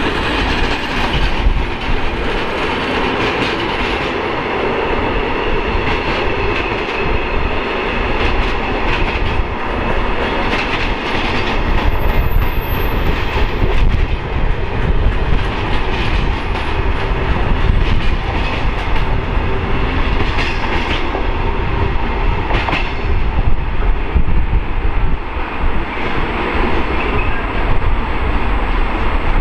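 Freight train of loaded timber wagons rolling past, with a steady rumble and the clickety-clack of wagon wheels over rail joints.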